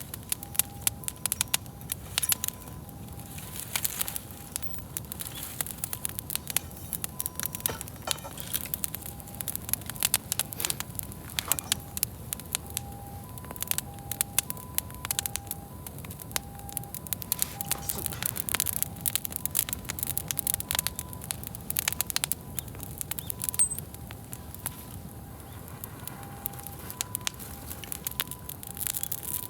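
Wood bonfire crackling and popping, with many sharp irregular snaps over a low steady rumble of the burning fire.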